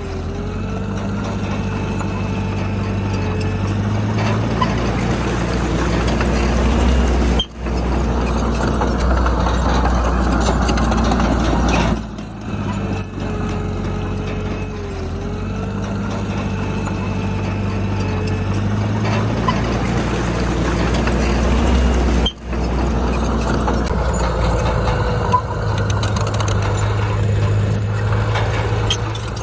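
Heavy diesel engine of an earthmoving machine running under varying load, its note shifting up and down over stretches of a few seconds. The sound breaks off briefly twice, about a third of the way in and again near the end.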